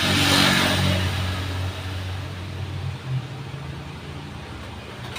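A motor vehicle passing, loudest about half a second in and then fading, with a low engine hum going on underneath.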